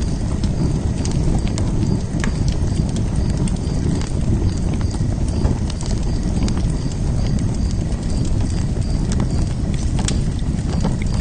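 Fire pit fire burning: a steady low rush of flames with sharp crackles and pops scattered irregularly throughout.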